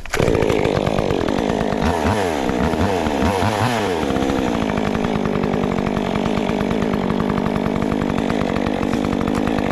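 Stihl MS 400 C-M two-stroke chainsaw starting up abruptly, blipped up and down in revs a few times about two to four seconds in, then running steadily.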